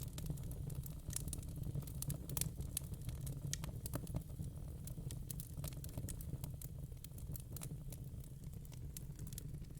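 Wood fire in a fire pit crackling: irregular sharp pops and snaps over a steady low rumble of the flames.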